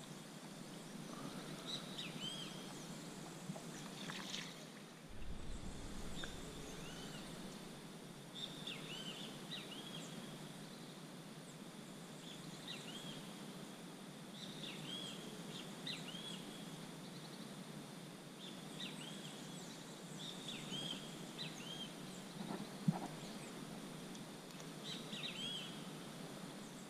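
Birds calling in short, high chirps with a hooked pitch, repeated every second or two, over a faint steady hiss. One sharp tap sounds a few seconds before the end.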